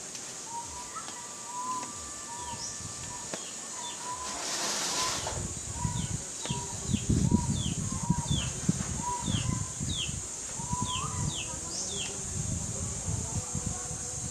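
Birds calling: a short note repeated about once a second, joined from about six seconds in by quick, high, falling chirps, over a steady high hiss. From about five seconds in, irregular low rustling and bumps come and go and are the loudest sound.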